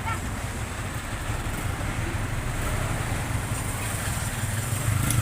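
A motor vehicle engine running, a steady low rumble that grows louder near the end.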